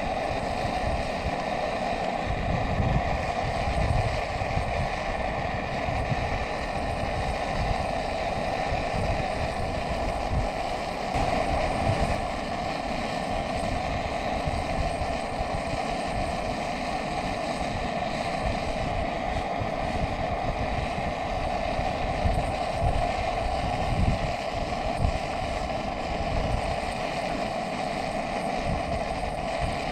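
Wind buffeting the microphone in uneven low gusts over a steady rushing roar.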